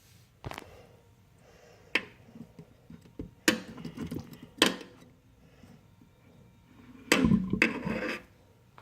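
Kitchen handling sounds: four sharp knocks spread over the first five seconds, then a louder, rougher clatter lasting about a second near the end.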